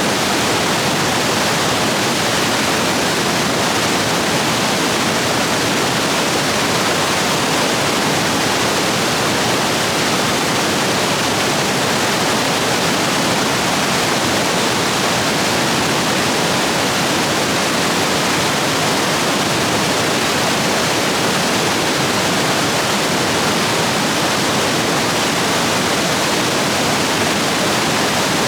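Rain-swollen stream rapids rushing steadily over rocks.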